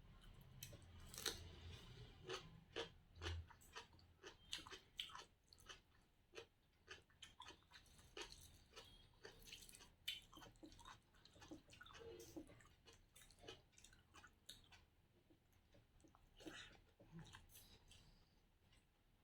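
A person chewing food noisily, close to the microphone: irregular wet smacks and crunches, a couple a second.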